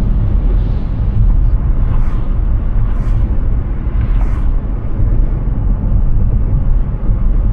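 Steady low rumble of tyre and wind noise from a moving electric car, with no engine note. Three brief hissing swishes come about two, three and four seconds in.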